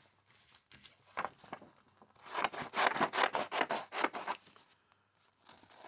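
Paper being rubbed with rapid back-and-forth strokes, starting with a few scattered scratches and building into a dense run about two seconds in that stops about two seconds later.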